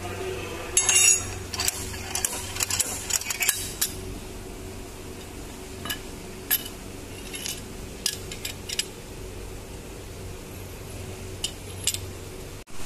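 Metal parts and tools clinking and clattering as a hand pallet truck's hydraulic pump is worked on: a burst of clatter about a second in, then scattered single clinks, over a steady low hum.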